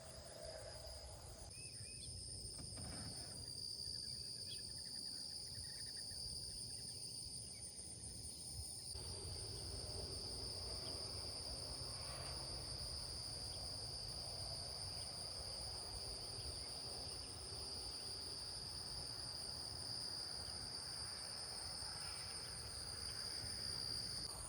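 Insects trilling steadily in two unbroken high-pitched tones, the higher one finely pulsed, over a low rumble.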